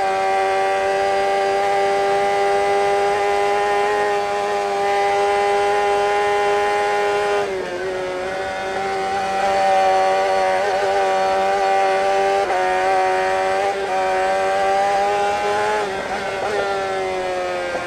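Racing motorcycle engine held at high revs at racing speed, its pitch nearly steady, with a brief dip in revs about seven and a half seconds in and a few small wavers later on.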